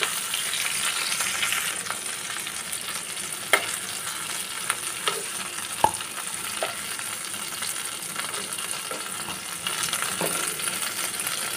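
Pointed gourds sizzling steadily in hot mustard oil in a pan. A few short clicks of the utensils against the pan come as they are turned and lifted out.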